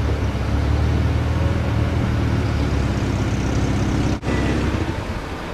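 A car engine running steadily close by, a low even hum, cut off by a brief dropout about four seconds in and then carrying on more faintly.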